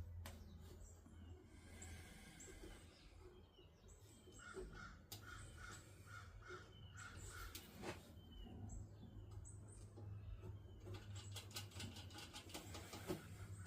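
Faint bird calls: scattered short chirps and a quick run of about eight short repeated calls, over a low steady hum. Light clicks come near the end.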